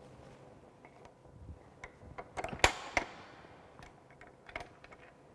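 Scattered knocks and clicks of metal pipe and pipe-bending tools being handled. The loudest is a sharp knock about two and a half seconds in that rings on briefly, followed by another knock.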